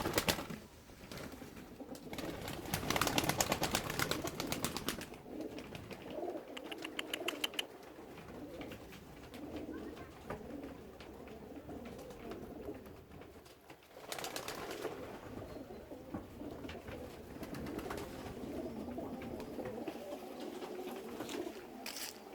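Baku pigeons cooing continually in a loft, with bursts of rapid clatter about three seconds in and again about fourteen seconds in.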